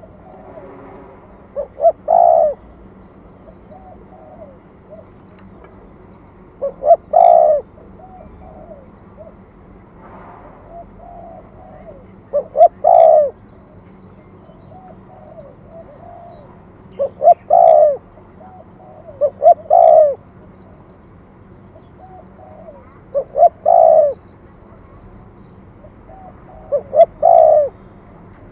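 Spotted dove cooing: a phrase of two short notes and a longer one, repeated about every five seconds, seven times in all, with fainter cooing between the phrases.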